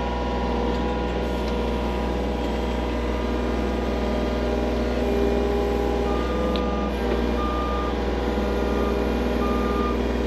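Skid loader engine running steadily at work. From about six seconds in, its reversing alarm beeps in short, uneven pulses as it backs up.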